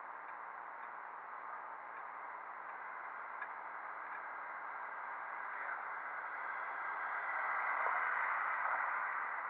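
Wind rushing over a motorcycle rider's microphone while riding, a steady hiss that swells louder for a couple of seconds near the end.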